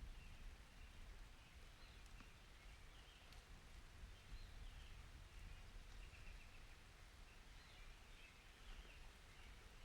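Near silence: faint outdoor ambience with a steady low rumble and scattered faint high chirps.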